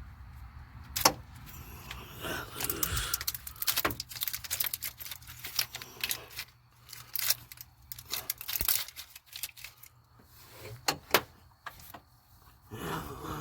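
Hand tools and loose metal engine parts clinking and rattling during work on a truck engine's brackets and fan, with scattered sharp metallic knocks. The loudest knock comes about a second in.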